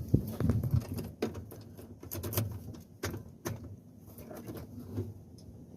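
Irregular clicks, knocks and low thumps of handling, with the loudest knocks about a second in and around the middle; no engine is running.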